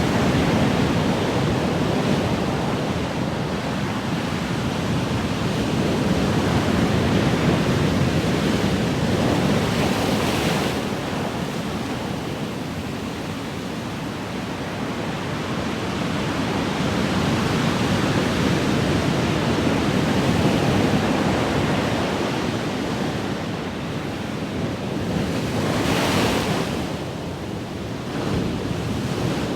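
Ocean surf: a continuous rush of waves that swells and ebbs slowly, with a brighter breaking wash about ten seconds in and again near the end.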